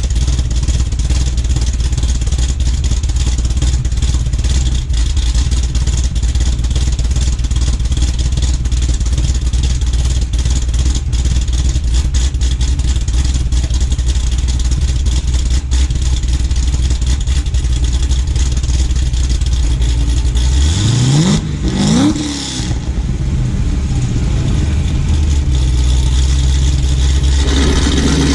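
Cadillac CTS-V's supercharged LSA V8, cammed with a BTR3 cam and straight-piped from ARH headers with no cats, idling with a choppy, uneven lope. About 21 seconds in it is blipped once, the revs rising quickly and falling back to idle, and the idle note changes near the end.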